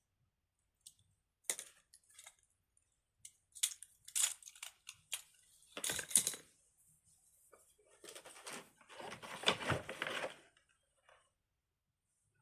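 Fidget toys and crinkly plastic packaging being handled: scattered rustles, taps and clicks, with a longer, denser rustle about nine to ten seconds in.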